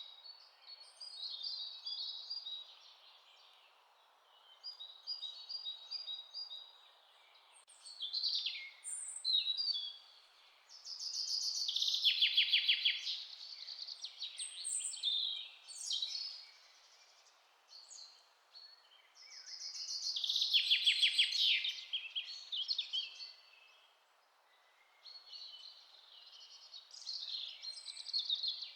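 Songbirds singing and calling in a forest, with rapid trilled phrases about twelve and twenty-one seconds in the loudest, over a faint steady background hiss.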